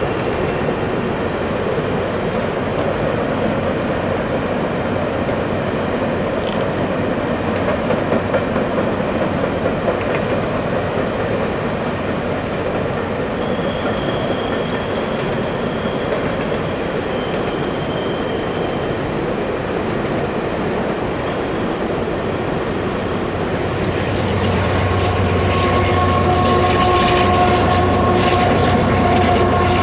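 Loaded coal hopper cars of a Canadian Pacific freight train rolling over a steel trestle bridge: a steady rumble of wheels on rail with some clickety-clack. Near the end, the train's rear distributed-power unit, a GE AC4400CW diesel locomotive, comes up and its engine hum grows louder over the rumble.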